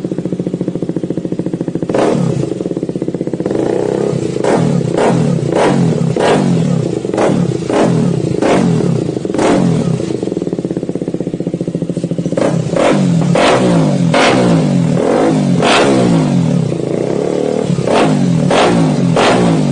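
KTM motorcycle engine idling, then revved in a long series of short throttle blips from about two seconds in, each rev climbing and dropping back quickly.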